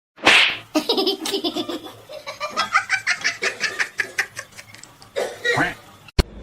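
A person laughing hard: a sharp outburst, then a long run of quick laughing bursts that fades out after about five seconds.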